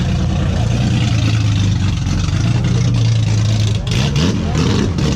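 Car engine running at steady revs while under way, over a steady hiss of tyres or rain; the engine note shifts about four seconds in.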